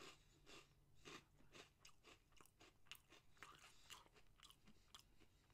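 Faint, regular chewing of a crunchy puffed corn snack, about two crunches a second.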